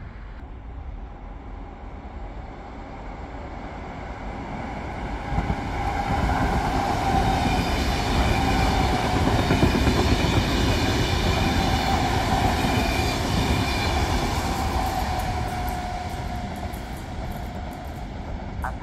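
A Frecciarossa high-speed electric train passes through the station at speed without stopping. It makes a rush of wheel and rail noise with a steady whine that swells over several seconds, is loudest in the middle, and fades as the train moves away.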